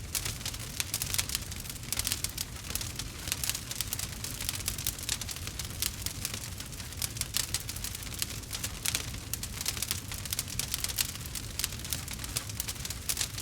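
Campfire crackling: dense, irregular sharp pops and snaps over a steady low rumble.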